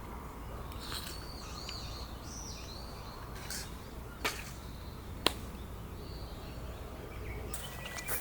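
Outdoor ambience: a steady low rumble with a few bird chirps in the first few seconds, then two sharp clicks about four and five seconds in.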